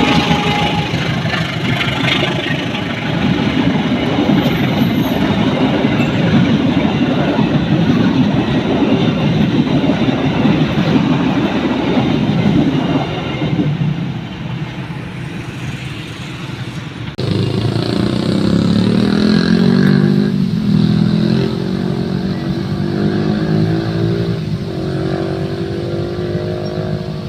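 Road traffic at a railway level crossing: motorcycle and car engines running and revving in a steady stream, with engines rising and falling in pitch in the second half.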